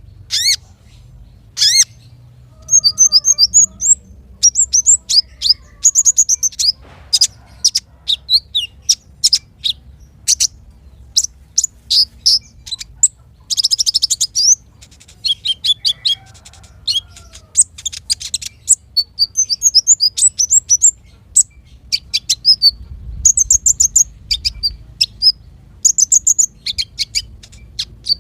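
Small songbirds calling in rapid, high-pitched chirps, sharp downward notes and short trills, in bursts with brief pauses between them. This is a masteran recording of small-bird song used to tutor caged songbirds.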